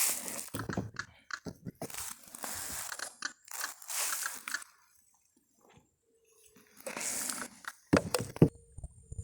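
Close crunching and rustling in four separate bursts of about a second each, then a few sharp clicks near the end.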